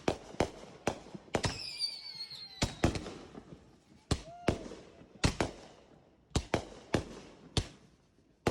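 Fireworks going off: a quick, irregular run of about fifteen sharp bangs, each with a short crackle. A whistle falls in pitch for about a second near the start.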